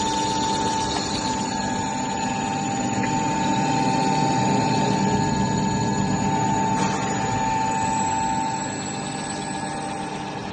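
Floating fish-feed pellet extruder machine running steadily: a constant motor hum with a steady high whine, dropping a little in level near the end.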